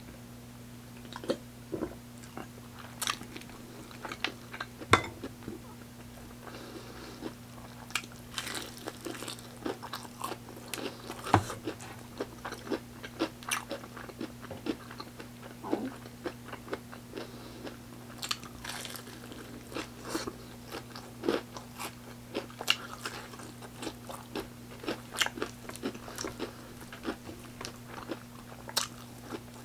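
Close-miked eating of fried chicken: crisp crunching bites and chewing, as irregular sharp crackles throughout, over a steady low electrical hum.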